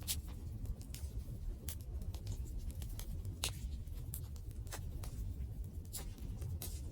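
Wood fire crackling: irregular sharp pops and snaps over a low, steady rumble of burning, with one louder pop about halfway through.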